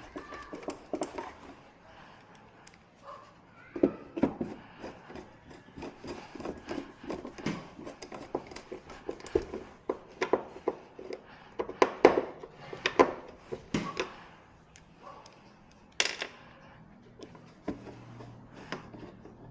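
Irregular clicks, taps and knocks from hands and tools working on a flat-screen TV's plastic casing and parts, with a sharp knock about three-quarters of the way through.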